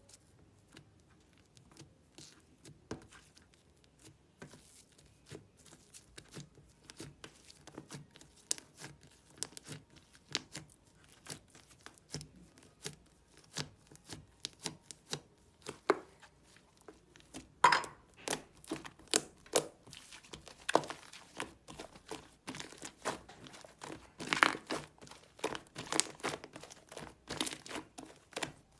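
Cream slime being squeezed and pressed by hand, making irregular sticky clicks and small pops, which grow louder and come more often about halfway through.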